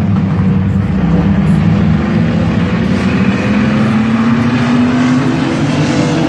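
Engines of a field of mini trucks racing on an oval track, a loud steady engine note that rises slowly in pitch through the middle.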